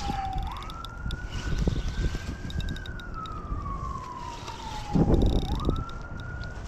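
A siren wailing: its single tone rises quickly, holds, then slides slowly down over a few seconds, and this happens twice. Low rumbling noise runs underneath, with a louder burst about five seconds in.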